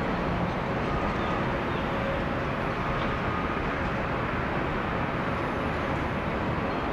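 Boeing 787 airliner's jet engines on landing approach, a steady rush with a faint whine, mixed with gusty wind noise.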